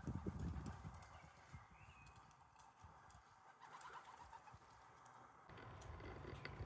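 Faint sounds of pigeons and doves at a garden bird feeder: soft knocks in the first second, then a few brief bird calls, one about two seconds in and a quick run of notes about four seconds in.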